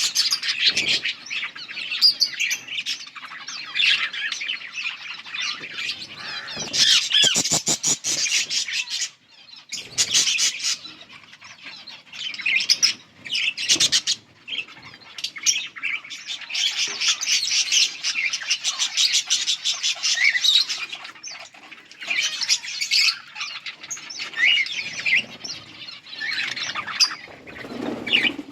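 Several yellow budgerigars chirping and warbling over one another in busy, continuous chatter, with a quick run of sharp clicks about seven seconds in and short lulls.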